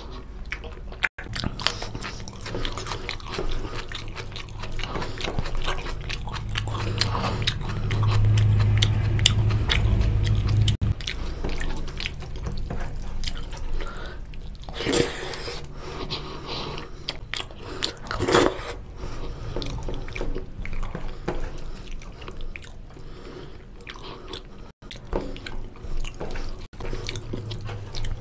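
Close-up chewing and biting of oily mutton curry and goat trotters with rice: a steady run of wet mouth clicks and smacks, with two louder sounds about halfway through. For a few seconds before that, a low hum rises under the chewing.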